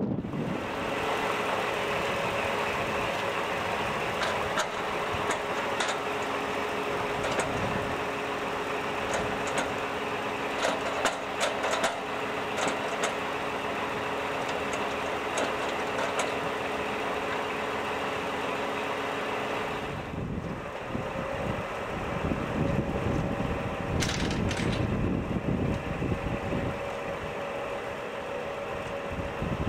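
Heavy diesel vehicle engine running steadily, with a steady hum and scattered light clicks; the sound changes abruptly about two-thirds of the way through.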